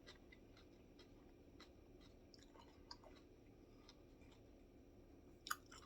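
Faint chewing of a raw rainforest pepper: soft, irregular crunches, with a slightly louder one near the end.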